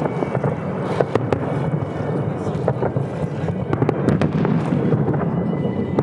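Fireworks display: scattered sharp crackles and pops over a steady low rumble.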